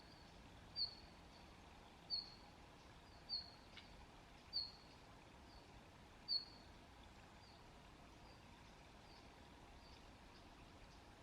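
A small songbird calling: a short, high, slightly falling note repeated about once every second and a quarter. Five clear calls come first, then fainter ones through the rest.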